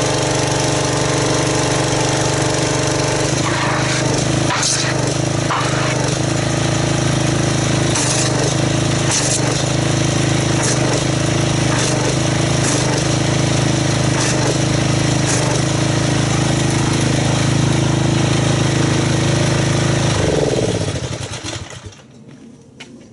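Pressure washer running steadily, its motor and pump droning under the hiss of the water jet as it agitates car soap in a wash bucket to make suds. Near the end the motor winds down with a falling pitch and stops.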